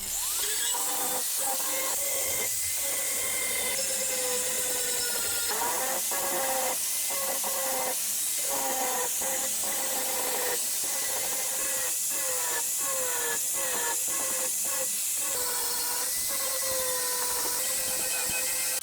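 Angle grinder grinding down welds on new steel patch panels: a steady hissing grind over a whine that dips and recovers again and again as the disc is pressed onto the metal.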